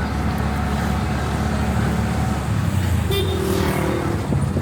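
Street traffic noise: a steady low engine hum with road noise. About three seconds in, a brief higher tone sounds.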